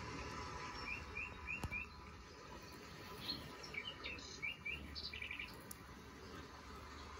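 Small birds chirping: a quick run of four short rising chirps about a second in, then scattered chirps and a brief rapid trill in the middle, over a faint steady background hiss.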